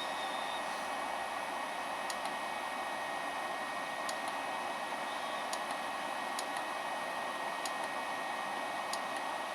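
High-speed 24000 rpm spindle motor running steadily on a Sako SKI780 variable-frequency drive: an even airy rush with a couple of steady high whining tones. A few faint sharp clicks come at intervals.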